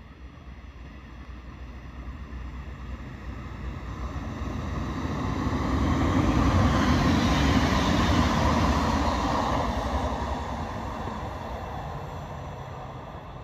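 Electric multiple-unit passenger train passing on the main line, with wheel and rail noise and a rumble. The sound grows as it approaches, is loudest about seven seconds in as it goes by, then fades as it runs away.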